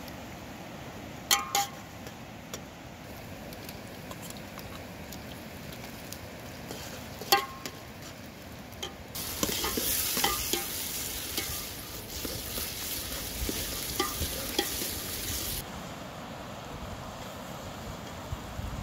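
Chopped onions and tomatoes frying in a metal cooking pot, with a metal spoon clinking against the pot several times as they are stirred. The sizzle gets much louder from about halfway through for several seconds, then drops back to a quieter hiss.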